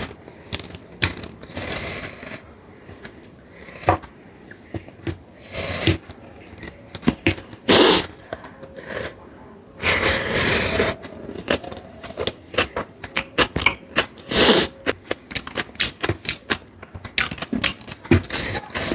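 Close-miked eating: a person chewing curry, with many small wet mouth clicks and a few louder noisy bursts.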